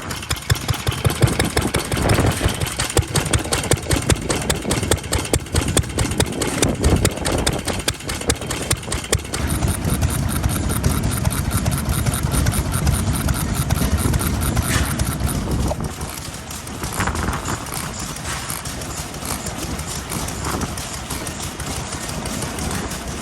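Vintage single-cylinder stationary farm engines running at idle, a rapid even putt-putt of firing strokes.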